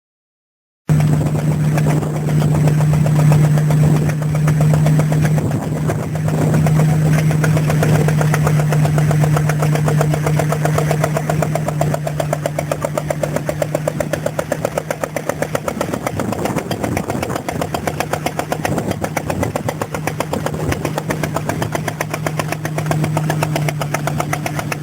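Vintage stationary engine running steadily with a fast, even beat and a strong low hum; the sound starts abruptly about a second in.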